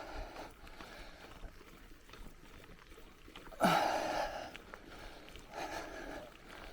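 A cyclist breathing hard, one heavy exhale about every two seconds. The loudest, a sharp exhale with a short grunt, comes just past the middle.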